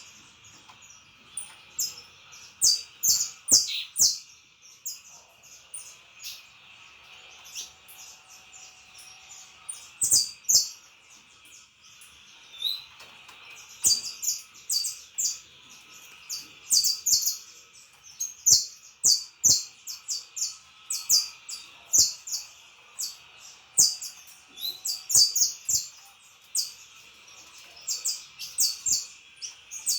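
Saffron finch (canário-da-terra) singing: quick phrases of short, sharp, high chirps, with pauses between them and longer runs in the second half. A steady high hiss lies underneath.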